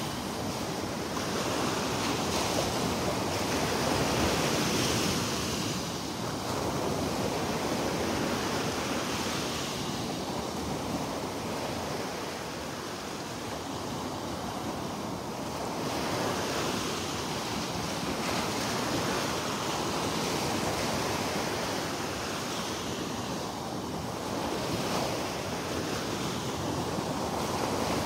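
Gulf of Mexico surf washing onto the beach, a steady rush that swells and eases every few seconds, with wind on the microphone.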